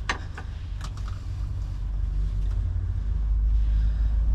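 A few short knocks in the first second, like parts being tapped into a wheel hub, over a steady low rumble that grows louder toward the end.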